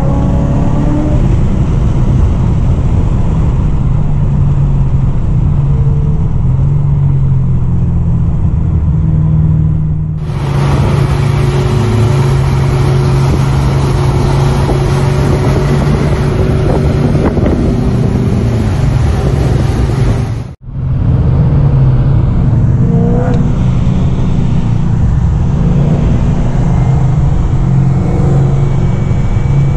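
Supercharged V8 car running on a race track: a loud, steady low engine drone with small shifts in pitch. For about ten seconds in the middle the sound turns brighter and hissier. Near two-thirds through it drops out for an instant before the drone resumes.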